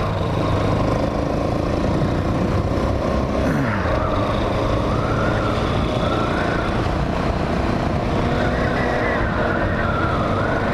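Hawk 250 single-cylinder motorcycle being ridden on the street, its engine running under steady wind noise on the helmet microphone. About four seconds in the engine note dips, and a high wavering whine comes in after that.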